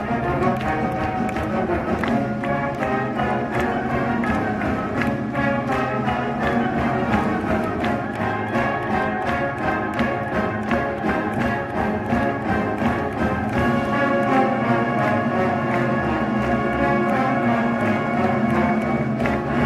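Orchestral music with strings and brass, playing continuously with a steady beat.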